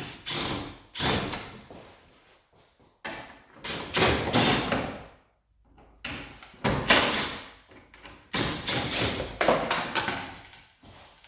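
Groups of knocks and thuds from loose plastic car body parts being handled and knocked about while the rear bumper is stripped.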